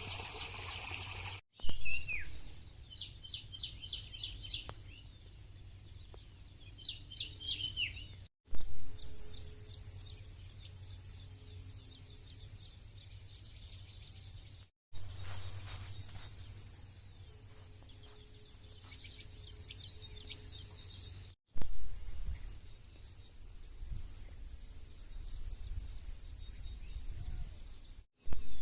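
Birds calling in short repeated notes over a steady high chirring of insects, with a low rumble underneath. The sound drops out briefly four times where clips are cut together.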